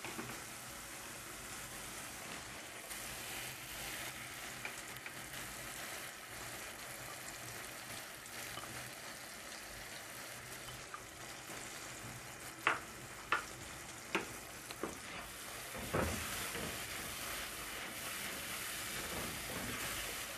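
Onions and spices sizzling steadily in hot oil in a non-stick wok. A little past the middle come a few sharp spatula taps as tomato puree is scraped in from a bowl, then a louder knock about two-thirds through, after which the sizzle is a little louder.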